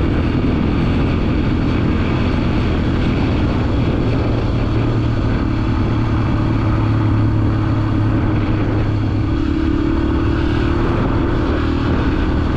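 Dirt bike engine running at a steady cruising speed, its pitch rising slightly about two-thirds of the way through.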